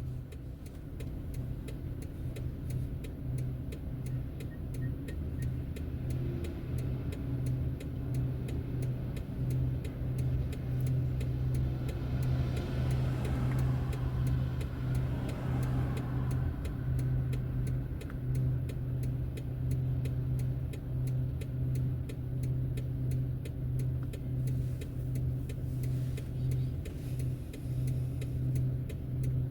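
Car driving along a road with a steady low hum of engine and tyres. About halfway through, a rush of noise swells and fades.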